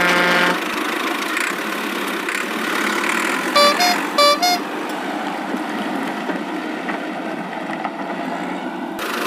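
Cartoon toy-vehicle sound effects. A buzzing pitched tone cuts off about half a second in, giving way to a steady engine-like rumble. A horn gives two quick two-note toots around the middle.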